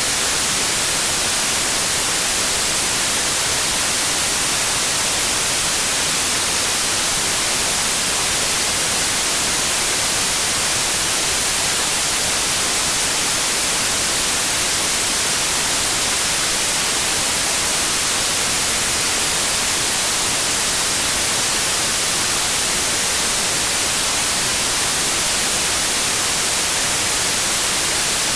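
Steady electronic white noise: an even, unbroken hiss, brightest in the treble, with no change in level or character.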